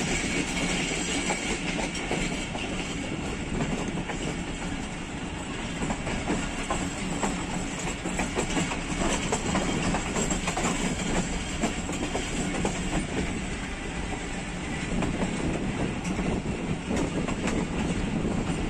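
Passenger train coach running along the track, heard from beside the coach: a steady rolling rumble of steel wheels on rail with clickety-clack over the rail joints.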